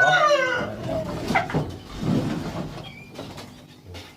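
The end of a rooster's crow, the call gliding down in pitch and dying away within the first second, followed by a few sharp knocks and a brief rustle.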